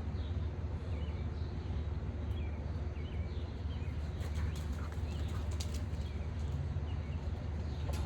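Small birds chirping in short calls over a steady low rumble, with a few sharp clicks around the middle.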